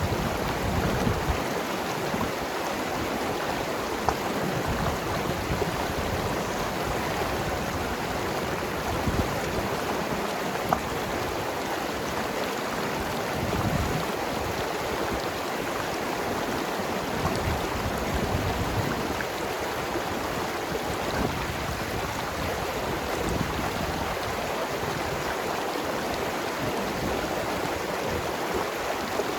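Mountain river flowing and gurgling over rocks: a steady rush of water with small splashes here and there.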